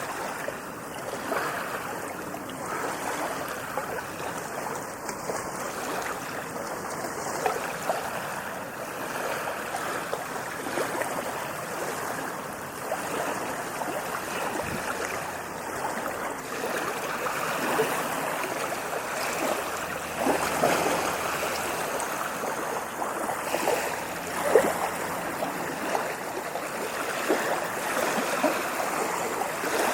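Sea waves washing onto a beach: a continuous rush of surf with a frothy crackle, swelling a little about two-thirds of the way through.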